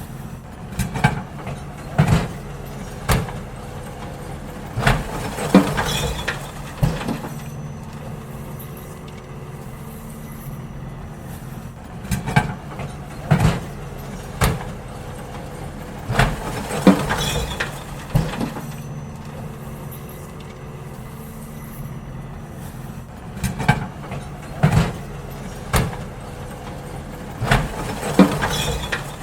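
Garbage truck engine running steadily. Over it, bins are lifted and emptied, with repeated clusters of loud clanks and bangs every few seconds.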